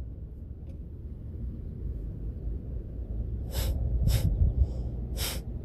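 Three short hissing sounds in the second half, over a low steady rumble.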